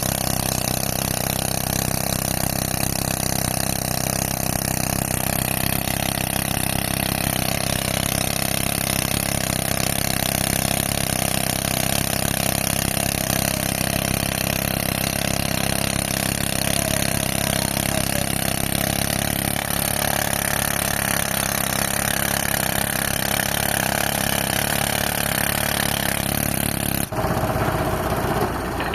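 Pneumatic rock drill running continuously, a dense hammering hiss, over the steady low running of the tractor engine that drives its air compressor. About two seconds before the end the drill stops abruptly, leaving the tractor engine running.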